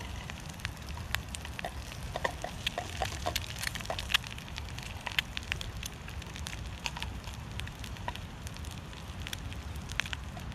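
Wood fire crackling in a Firebox wood-burning stove: irregular sharp pops and snaps over a steady low rumble.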